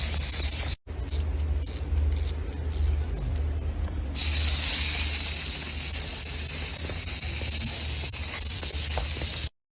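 Steady hiss over a low hum, with a brief dropout about a second in. The hiss is thinner for the next few seconds and then louder again, before cutting off abruptly to silence near the end.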